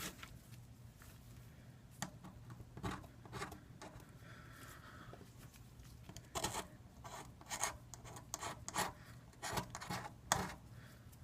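Short, irregular scraping strokes of a tool against the iPad 2's aluminium housing, a few at first, then a quick run of them in the second half, over a faint steady hum.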